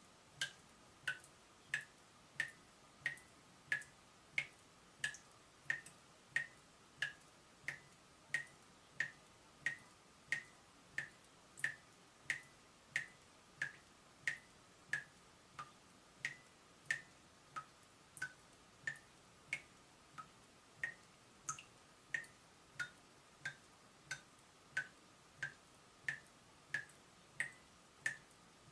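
Water dripping from a leaking tap, a steady, even run of drips about three every two seconds, each a short pitched plink.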